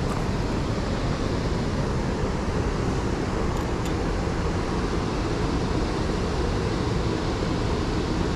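Steady rush of a large waterfall, an even roar of falling water with no pitch to it.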